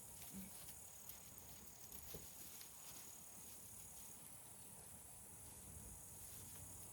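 Faint outdoor ambience with a steady, high-pitched insect trill that stops about four seconds in, and a few faint ticks.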